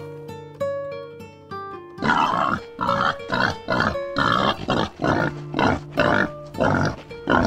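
Wild boar grunting in a steady rhythm, about two grunts a second, starting about two seconds in. Background music with plucked notes plays throughout and is heard alone before the grunting begins.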